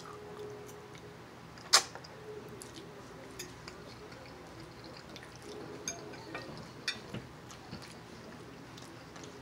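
Close-miked chewing of a mouthful of barbecue pork chop, with soft wet mouth clicks and one sharp click about two seconds in.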